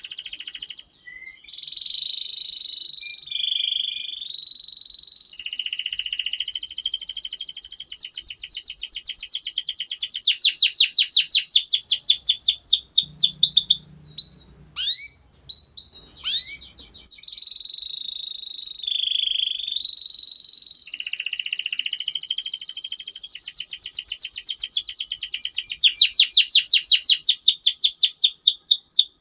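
Domestic canary singing a long song of held whistled notes and fast rolling trills, with a brief break of a few short chirps about halfway through.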